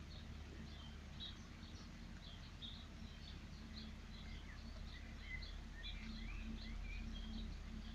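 Small birds chirping: short high chirps repeating several times a second, with a few brief sliding calls lower down in the second half, over a low steady hum.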